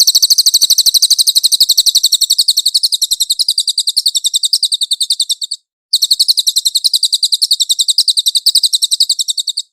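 A cililin songbird singing a rapid, high-pitched trill of evenly repeated notes, about fourteen a second, in two long bouts with a brief break a little past halfway.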